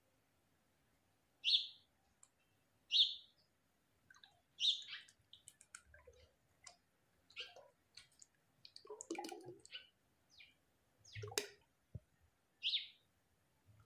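Small birds chirping in short, separate calls repeated every second or two, with faint splashes and trickling as liquid caustic soda is poured slowly into a bucket of used cooking oil.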